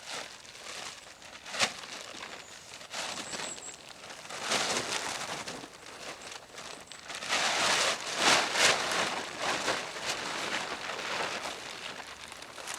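Rustling and crinkling of camping gear being handled, swelling and fading in irregular bursts, with a sharp click about one and a half seconds in.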